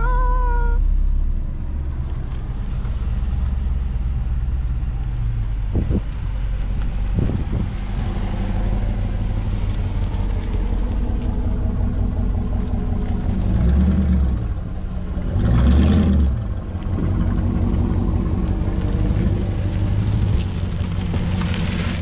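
Dodge Charger's Hemi V8 rumbling at low speed with a deep, steady exhaust note. The note swells briefly twice, about two-thirds of the way through.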